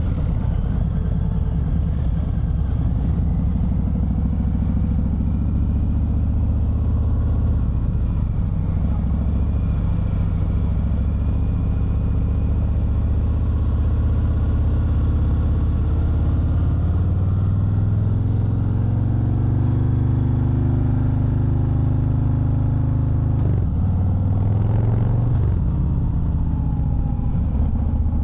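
Harley-Davidson Fat Bob 114's Milwaukee-Eight 114 V-twin running on the road. Its pitch holds steady, then climbs for several seconds as it pulls in gear. It drops sharply, climbs again briefly, and eases back near the end.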